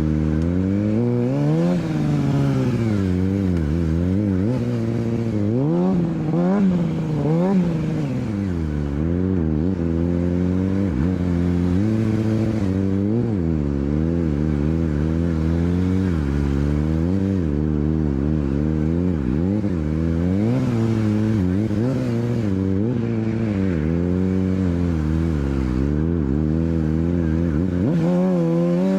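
Motorcycle engine revving up and down over and over, its pitch rising and falling every second or two without a break.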